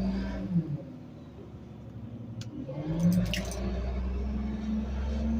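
Rear-loader garbage truck's engine and hydraulic packer running. The engine drops back about a second in, then speeds up again about three seconds in, with a few sharp cracks around the same time.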